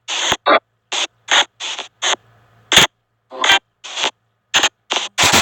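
Spirit box app sweeping: a run of short, chopped bursts of noise and clipped voice fragments, about two a second, with a longer burst near the end, over a faint steady hum.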